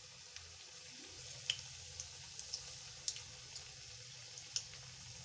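Battered cauliflower pakoras deep-frying in hot oil: a steady sizzle with small crackling pops scattered through it.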